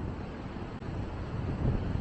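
Wind buffeting the microphone in uneven gusts, with ocean surf washing underneath.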